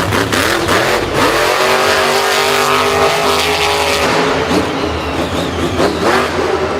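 Monster truck engine revving, its pitch rising and falling and then holding steady for a while.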